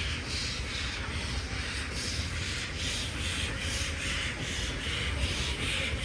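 Narrow-gauge steam locomotive 8A working, its exhaust beats coming in a steady, quick rhythm over a low rumble.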